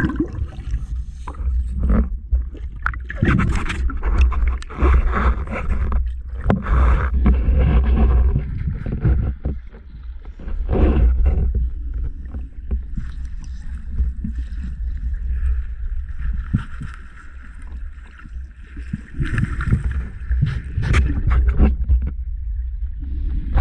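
Water sloshing and splashing right at the microphone, in irregular surges over a heavy, steady low rumble.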